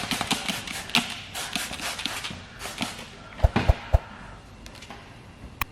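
Handling noise as paint protection film is positioned and pressed onto a car's rear hatch: scattered light clicks and rustles, with a few louder knocks and low thumps about three and a half to four seconds in.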